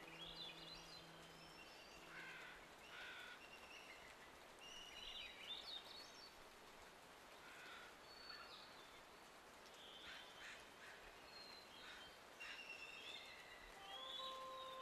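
Faint birdsong: scattered short chirps and rising whistled phrases from several small birds over a quiet background hiss.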